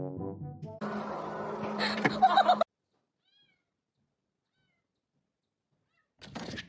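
A domestic cat meowing, with loud pitched calls about two seconds in, after a brief stretch of music.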